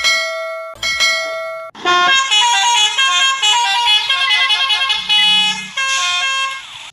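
Vehicle horn: two long held blasts, then a quick tune of stepping notes in the same horn-like tone.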